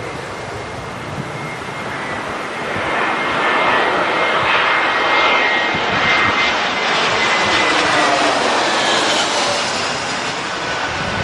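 Jet airliner passing low overhead on landing approach: engine noise builds about three seconds in, is loudest through the middle and eases near the end, with a thin high whine that drifts slightly down in pitch as it goes by.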